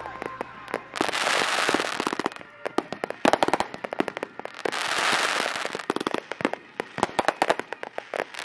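Aerial fireworks breaking overhead: three times a dense crackling hiss swells and fades, each followed by quick strings of sharp pops.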